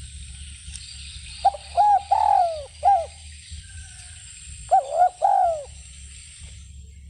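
Spotted dove cooing: two phrases of low coos, the first of four notes and the second, about three seconds later, of three, each with a longer drawn-out note, over a steady high-pitched hiss.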